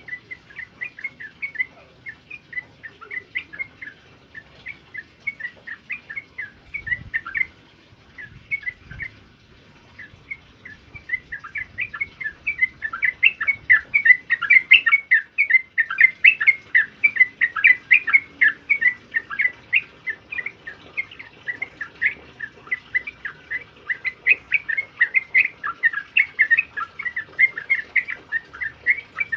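Yellow-vented bulbul song: quick bubbling phrases of short notes, sparse at first, then denser and louder from about a third of the way in.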